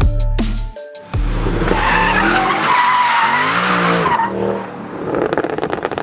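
A car's tires squealing over its revving engine, after the last beats of electronic music, followed by a fast crackling rattle near the end.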